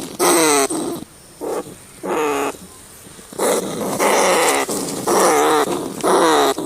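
Rats squealing: a run of short, pitched cries, many sliding slightly downward, coming in quick succession with a quieter spell of fewer cries in the middle.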